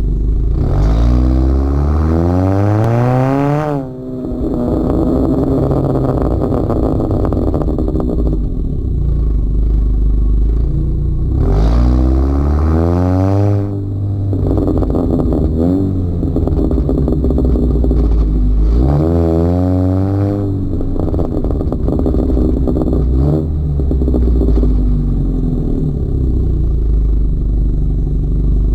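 Honda Accord 1.5-litre turbocharged four-cylinder through a catless PRL race downpipe, PRL frontpipe and Thermal R&D exhaust with quad tips, pulling hard three times. The exhaust note climbs steeply in pitch each time; the first two climbs end in a sudden drop, and it runs at a steady drone in between.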